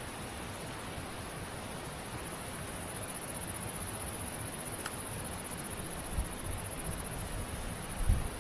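A steady, high-pitched insect chirring over a low rumble like wind on the microphone, with two dull thumps near the end, the second the loudest.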